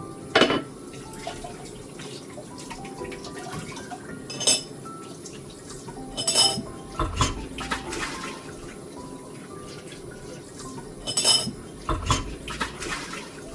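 Dishes and cutlery clinking as they are handled and set down: about six sharp knocks and chinks, several with a brief ringing like glass or china, the loudest right at the start.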